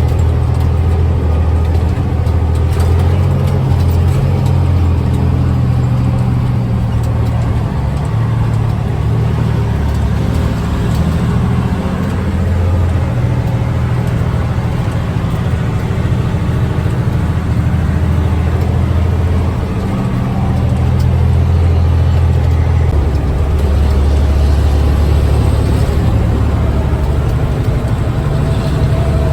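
Truck diesel engine running under way, a steady low drone that shifts in pitch a few times as it changes speed or gear.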